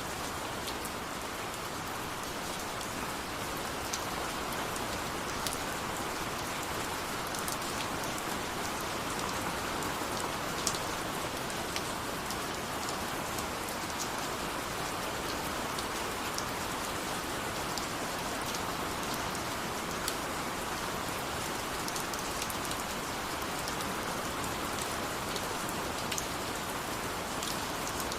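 Steady rain falling, an even hiss with scattered sharp drips of individual drops striking a surface.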